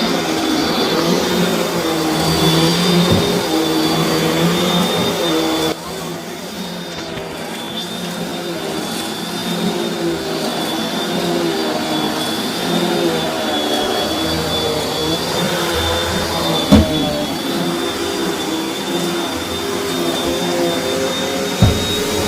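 Vacuum cleaner running steadily, its motor giving a high whine. It drops in level about six seconds in, and two short knocks come later as it bumps against something.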